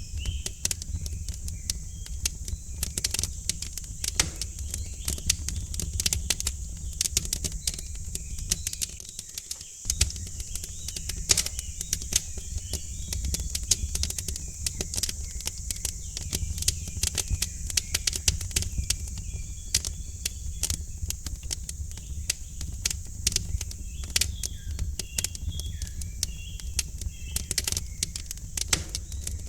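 Wood fire crackling in a fireplace, with irregular sharp pops over a low steady rumble. Faint bird chirps can be heard behind it.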